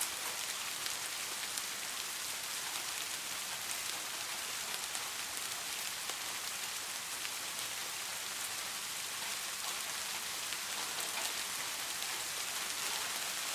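Steady rain falling on a surface, a continuous hiss sprinkled with many small drop ticks.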